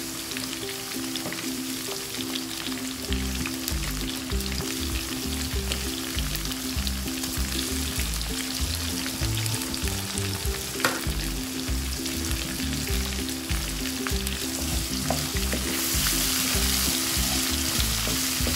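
Ginger-garlic paste and tomato pieces sizzling in hot oil in a frying pan. Near the end the sizzle grows louder as a wooden spatula stirs them.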